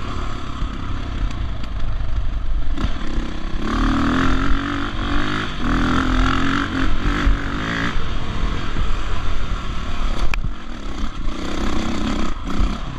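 Dirt bike engine running under load on a trail ride, pulling harder for about four seconds in the middle and again briefly near the end, over a constant low rumble. A sharp knock about ten seconds in.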